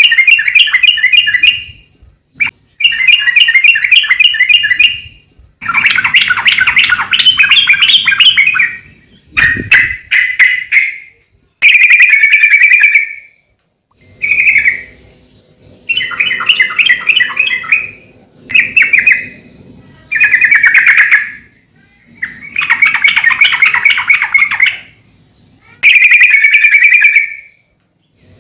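Yellow-vented bulbul (trucukan) singing loudly and repeatedly: bubbling, chattering phrases of a second or two each, separated by short pauses.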